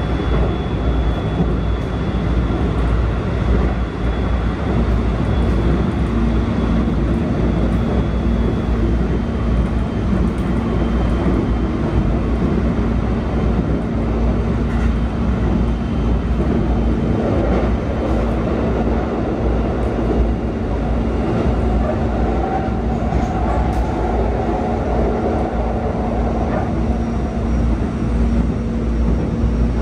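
Keikyu 1000 series electric train with Toshiba IGBT-VVVF drive, running at speed and heard from inside the passenger car: a continuous rumble of wheels on rail with a steady low tone running under it.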